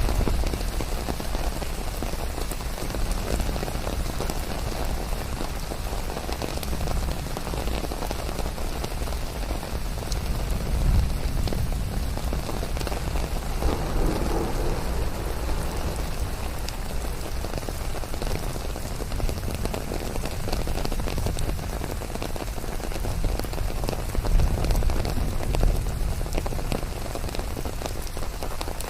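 Steady rain falling and pattering on surfaces, an even hiss with a low rumble underneath.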